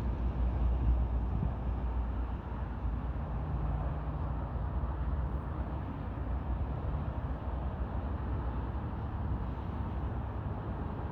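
Steady low rumble of outdoor background noise, with a faint steady hum in the middle.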